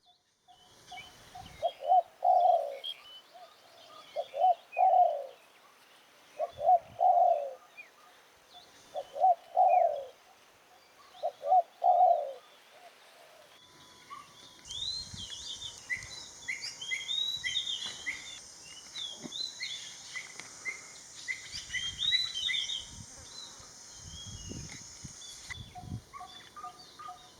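Spotted dove cooing: five soft phrases of a few low notes each, repeated about every two and a half seconds. About halfway through, the sound changes to a busy chorus of high chirping and twittering birds.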